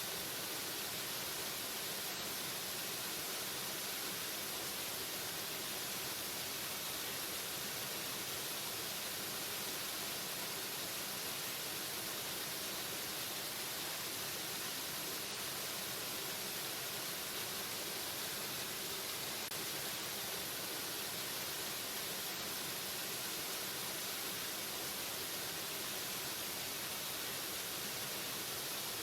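Waterfall water rushing in a constant, even hiss, weighted toward the high end with little low rumble.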